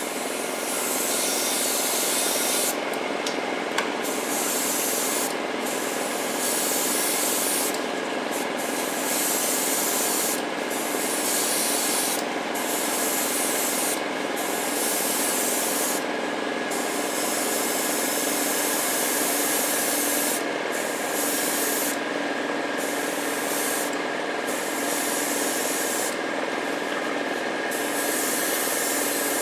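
Airbrush spraying paint onto a diecast model car body: air hiss that starts and stops every second or two as the trigger is worked, over a steady hum.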